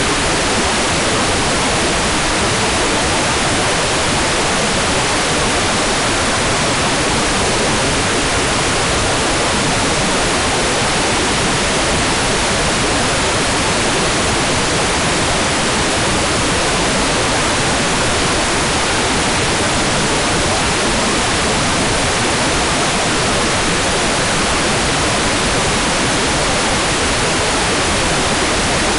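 Hair dryer running steadily: an even, unchanging rushing hiss of blown air with no rise, fall or break.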